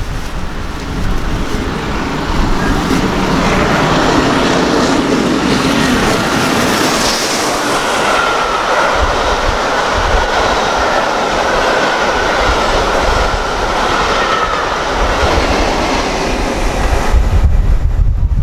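A train passing close at speed: the rush of its wheels and coaches builds over the first few seconds, holds, then falls away a second or so before the end. A thin steady whine runs through the middle of the pass.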